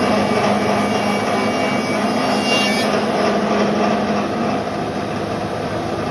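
Double-sided heavy-duty thickness planer running with wood being fed through its cutterheads; the high cutting noise eases about three seconds in while the machine keeps running with a steady hum.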